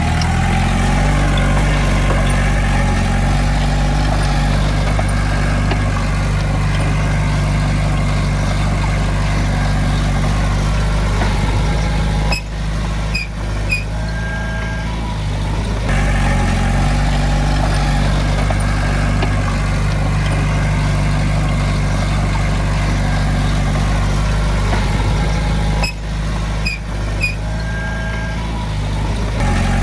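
Heavy diesel engine of earthmoving machinery running steadily under load, with two brief dips in level, about twelve and twenty-six seconds in, each carrying short high tones.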